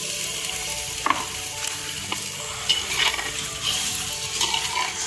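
Boneless chicken pieces sizzling as they go into hot oil and onion-garlic-ginger paste in an earthenware handi, with a steady frying hiss. A steel ladle stirs them, clinking and scraping against the clay pot now and then.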